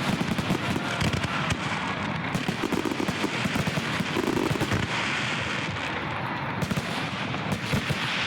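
Fireworks going off: a dense, continuous run of rapid bangs and crackles.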